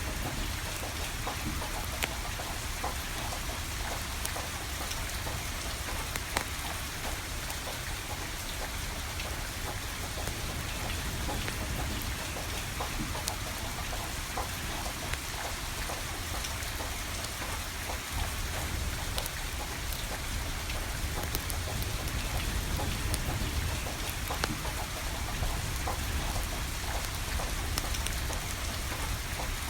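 Steady rain falling, with scattered sharp pops and crackles from a burning wood fire.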